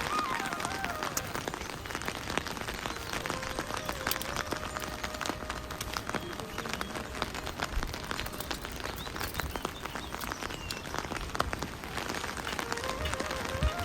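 Steady rain falling, with many small sharp drop hits close by.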